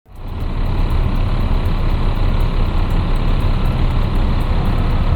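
Heavy truck engine running steadily, a low rumble that fades in at the start, with a faint regular ticking high above it.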